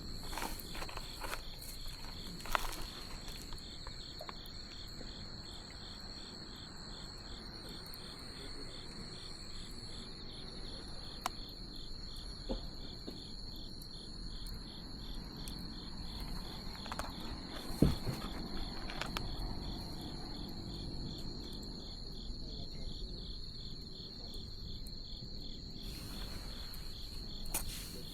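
Insects chirping steadily in a high, evenly pulsing trill, over the crackle of a wood bonfire with scattered sharp pops, one loud pop about two-thirds of the way through.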